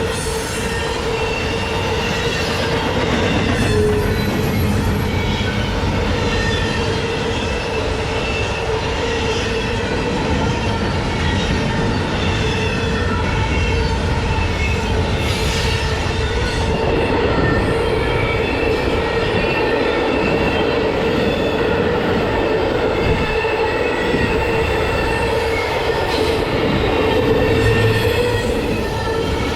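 Norfolk Southern freight train rolling past, its wheels squealing steadily on the rails under a continuous rumble and clatter of the cars.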